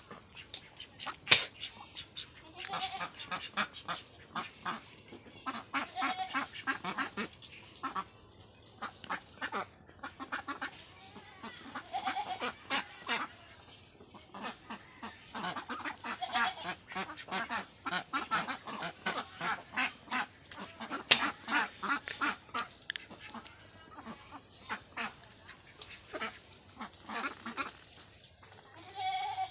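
A flock of domestic ducks quacking in rapid runs of short calls, several birds overlapping, with a sharp knock about a second in.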